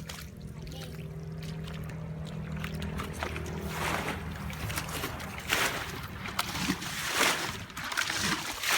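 Water sloshing and splashing in irregular bursts, growing busier from about four seconds in, over a low steady engine hum that fades out around the middle.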